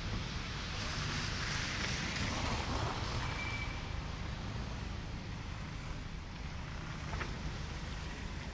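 A vehicle passing on a snowy city street, its hiss swelling over the first few seconds and then fading, over a steady low rumble of wind on the microphone.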